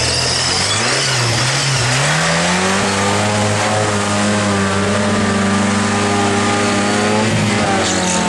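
Off-road trial 4x4's engine running hard, its revs wavering and then climbing over the first couple of seconds and held high and steady after that.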